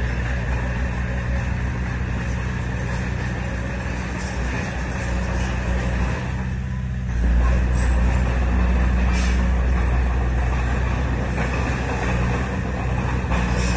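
Heavy diesel earthmoving machinery running steadily under work, with a low engine rumble that grows louder and deeper about seven seconds in.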